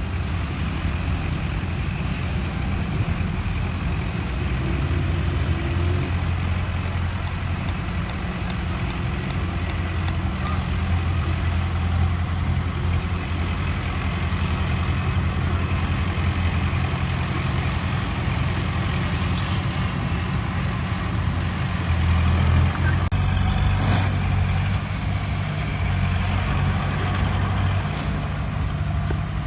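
Heavy diesel engine of earth-moving machinery running steadily with a low drone, growing louder for a couple of seconds about three-quarters of the way through.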